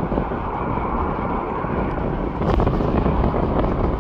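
Steady jet airliner engine noise, with wind buffeting the microphone.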